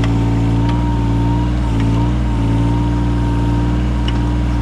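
Yanmar 017 mini excavator's diesel engine running steadily, with a steady high whine over it that dips briefly a few times as the load changes. A few faint clicks sound through it.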